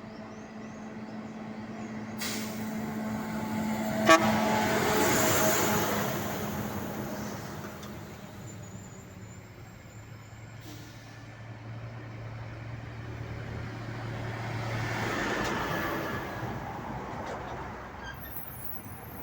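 Trucks passing on a road: one goes by about five seconds in, just after a sharp click, and another swells past around fifteen seconds in.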